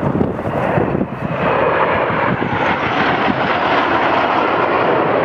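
Airplane passing overhead, its engine noise swelling about a second and a half in and then holding loud and steady.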